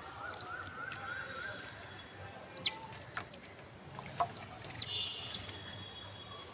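House sparrows chirping: scattered short, sharp chirps, the loudest about two and a half seconds in and a few more around four to five seconds, with a faint run of quick repeated notes in the first two seconds.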